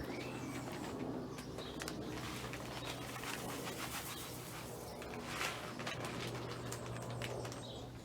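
Birds calling, with short chirps and scattered clicks over a steady low hum.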